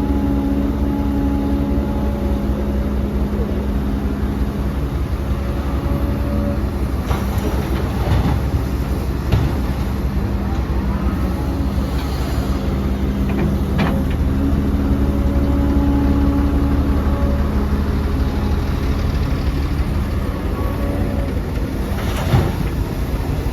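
Diesel engines of heavy earthmoving machinery, an excavator working with dump trucks, running steadily, the engine note shifting as the load changes. A few metallic clanks and knocks cut through, the sharpest near the end.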